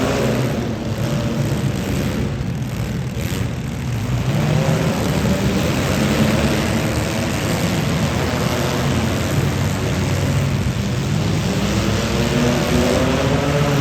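Demolition derby car engines running and revving, a loud, steady, layered drone that eases slightly about a second in and picks up again about four seconds in.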